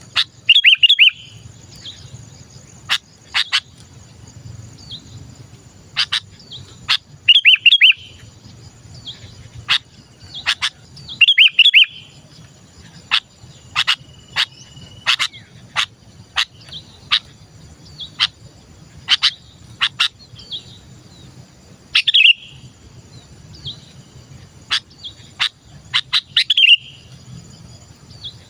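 Sooty-headed bulbul (kutilang) calling. Loud short bursts of chirps come every few seconds, with many single sharp notes between them, over a steady high insect buzz.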